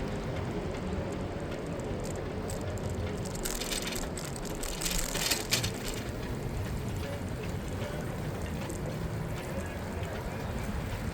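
Street sound heard from a moving bicycle: a steady low rumble of wind on the microphone and road noise. About four seconds in, a brighter hiss rises for about two seconds and fades.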